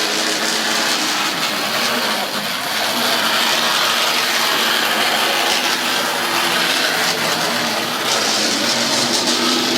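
Model railway Class 37 locomotive running round its track, its small electric motor and gears whirring steadily with a loud hissing rattle; the motor is noisy.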